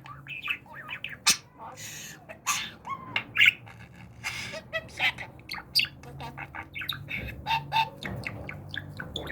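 Budgerigar chattering: a rapid, continuous run of short chirps, clicks and raspy squawks, with a few brief warbled notes.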